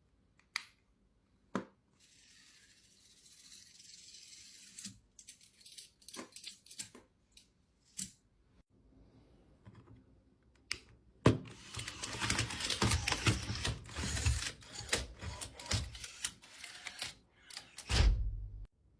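Clicks, taps and rustling of a small object being handled, with a dense run of clicking and crackling in the second half and a dull thump near the end.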